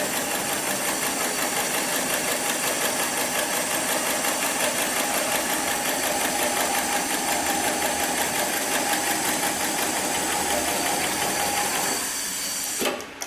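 Heavy-duty programmable pattern sewing machine for polyester and nylon webbing slings, running steadily with a rapid, even mechanical rhythm as it stitches. It stops about 12 seconds in, and a single sharp clack follows shortly before the end.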